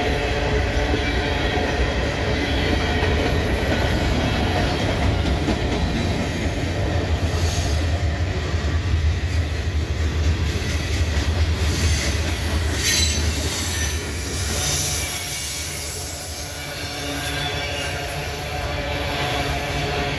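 Freight train cars rolling past at close range, a steady low rumble of wheels on rail with clacking over the joints. High-pitched wheel squeal comes through about two-thirds of the way in.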